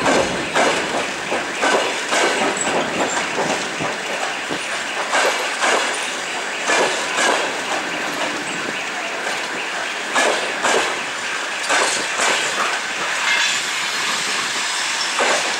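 Passenger coaches rolling past, their wheels clattering on the rails in an uneven run of knocks over a steady rumble and hiss of rolling stock.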